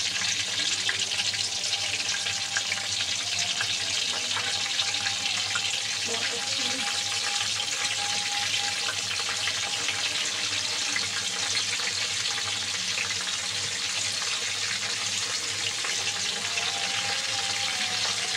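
Masala-stuffed green chillies frying in hot oil in a pan: a steady sizzling hiss with fine crackles.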